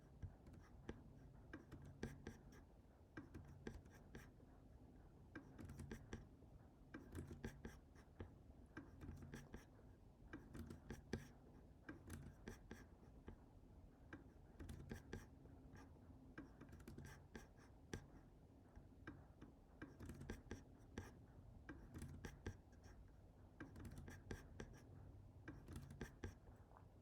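Computer keyboard typing and clicking in quick clusters of short, sharp taps, over a faint low room hum.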